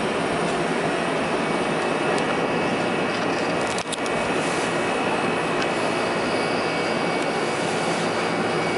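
Passenger train running along the track, heard from inside the front car: a steady running noise of wheels and motors, with a brief click about four seconds in.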